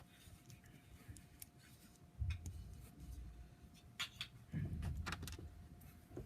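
Small LEGO pieces being handled and pressed onto a plate: scattered faint plastic clicks, with two short dull low bumps of handling, about two seconds in and near five seconds.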